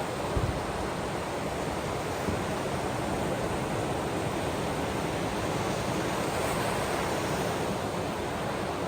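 Steady rushing wash of ocean waves on the shore, with a brief low thump about half a second in.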